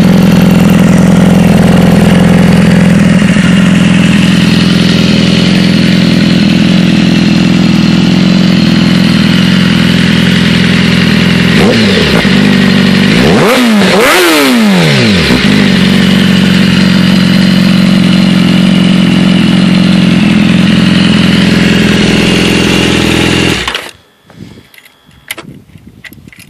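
2013 BMW S1000RR's inline-four engine idling loudly through an Austin Racing full exhaust, blipped twice about halfway through with quick rises and falls in revs. Near the end it is switched off and cuts out suddenly, leaving a few faint clicks.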